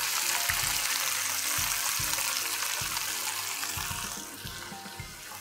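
Freshly washed, chopped spinach sizzling in hot oil in a pan just after going in; the sizzle fades about four seconds in. Background music with a steady beat plays underneath.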